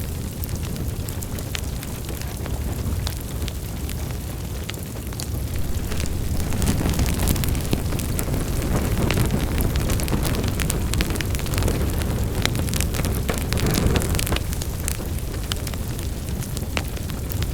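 Wood fire burning in a fireplace: a steady low rumble of flames with frequent sharp crackles and pops, swelling louder for several seconds in the middle.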